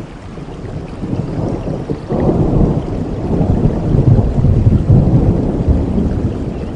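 Thunder rumbling over steady rain, a deep roll that swells about two seconds in and keeps going.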